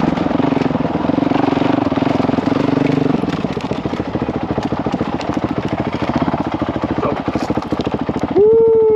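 Single-cylinder Honda CRF dirt bike engine running under way at a steady pitch, its beat loosening about three seconds in. Near the end the throttle is snapped open, and the revs jump up loudly and then begin to fall.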